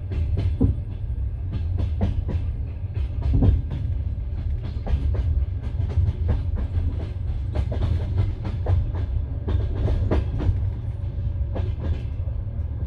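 Passenger train carriage running over the rails: a steady low rumble with the wheels clacking sharply and irregularly over rail joints, several knocks a second.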